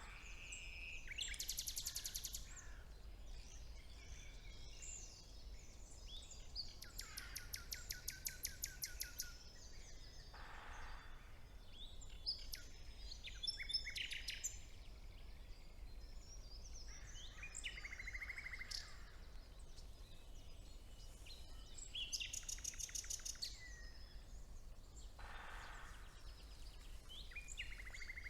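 Spring woodland birdsong: several songbirds singing in a chorus of scattered high notes. Three louder songs of fast repeated notes stand out, about a second in, around seven seconds in and around twenty-two seconds in, over a steady low rumble.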